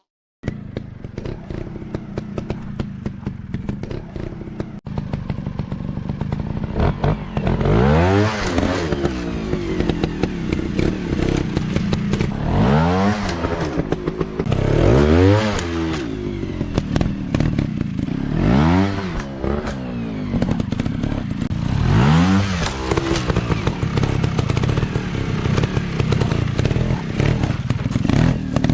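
Dirt bike engines running: a steady note at first, then repeated rev bursts that rise and fall every two to three seconds, with clattering knocks throughout.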